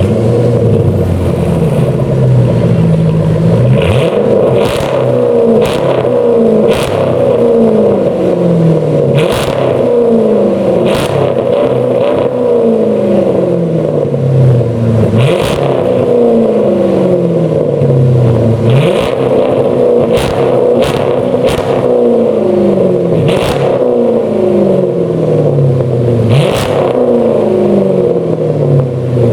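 Chrysler 300C engine revved repeatedly through an aftermarket GIMMIC dual sports exhaust. Each blip rises sharply and falls back toward idle, about a dozen times, with crackles at the peaks.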